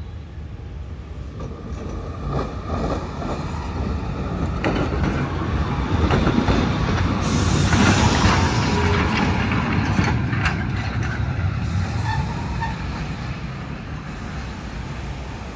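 A vehicle passing by, its low rumble growing louder to a peak about halfway through and then fading away.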